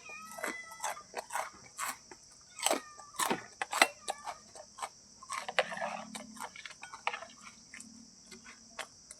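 Irregular sharp taps and clicks, with a few short chirps near the start and a brief rustle about halfway through, over a steady high-pitched insect drone.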